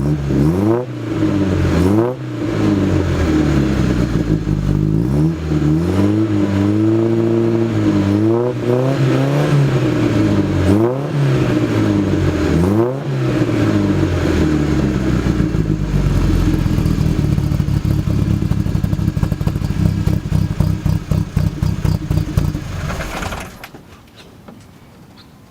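Datsun 510 wagon's engine and exhaust, revved in a series of blips that rise and fall, then settling to a steady idle about fourteen seconds in. Near the end the engine sound cuts off suddenly.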